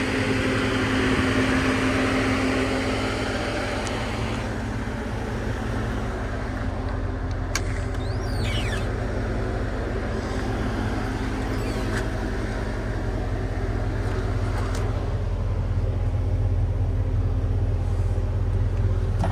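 Land Rover Defender truck's engine idling steadily, with a few sharp clicks in the middle stretch.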